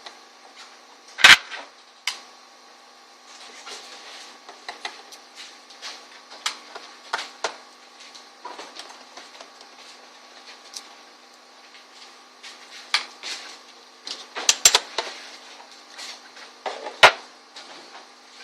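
Scattered clicks, taps and knocks of a laptop's hard drive and plastic and metal parts being handled and pulled out. A sharp loud click comes about a second in, a quick cluster of clicks comes near the end, and a faint steady hum runs underneath.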